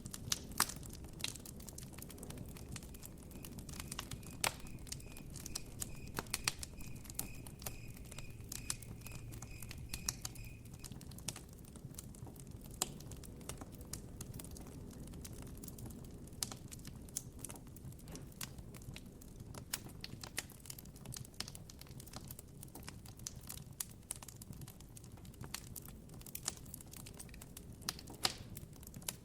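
Campfire crackling with frequent sharp pops over a low steady rumble. From a few seconds in until about a third of the way through, a cricket chirps in an even series of high notes.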